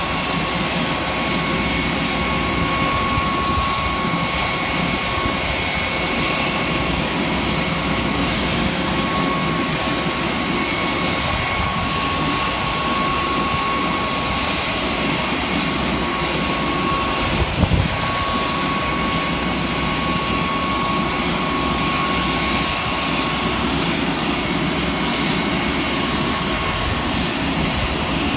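Panavia Tornado GR4's twin RB199 turbofans running steadily: a constant rumble with a high, steady whine over it. There is one brief low bump a little after halfway.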